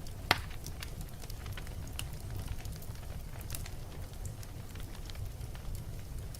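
Wood fire burning in a fireplace: a low steady rumble of flames with scattered crackles and pops, the loudest pop about a third of a second in.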